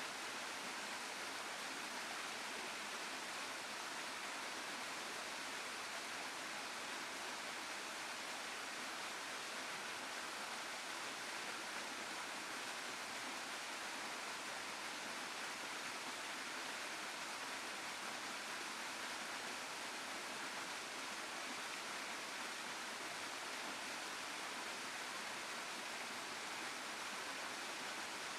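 Waterfall and stream water rushing steadily, an even unbroken hiss.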